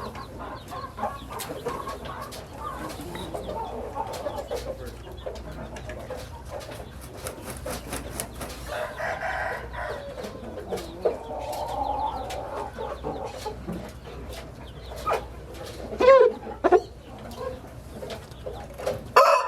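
Chickens clucking and calling, with roosters crowing; the loudest calls come about sixteen seconds in, among scattered sharp clicks.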